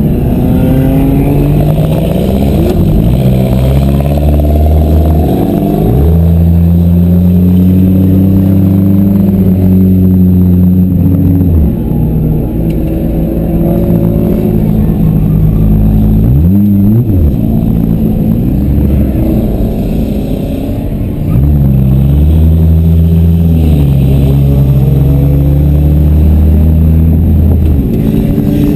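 Demolition derby car engines revving hard, rising and falling in pitch, with long stretches held at high revs and a few brief drops off the throttle.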